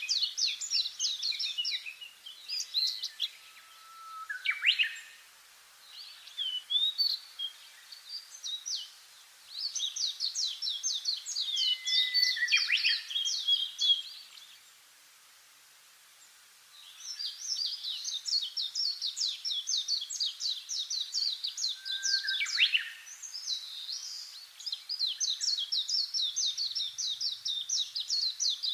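Songbirds singing in long, rapid twittering bouts, with a few rising whistled notes mixed in. The singing stops for about two seconds just past the middle, then resumes.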